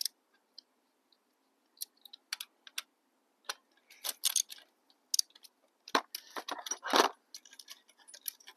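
Metal hand tools being handled, with irregular clinks and clatters that grow louder and busier about six seconds in.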